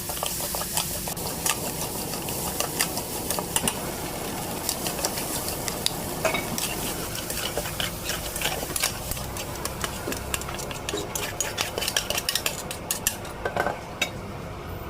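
Fried rice sizzling in a hot pan while a metal spatula stirs and tosses it, its many sharp clicks and scrapes against the pan coming thicker near the end as the sizzle fades.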